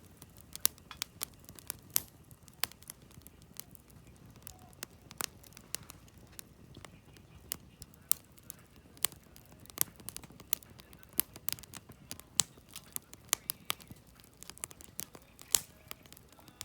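Firewood burning in a campfire, crackling with frequent sharp snaps and pops over a steady low rush of the flames.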